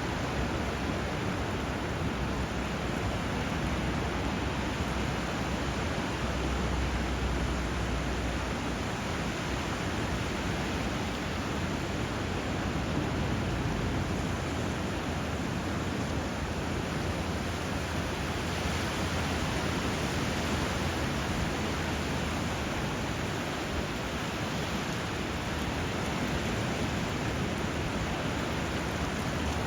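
Steady rush of water where a river flows into the sea, an even hiss with no separate wave breaks or bird calls standing out.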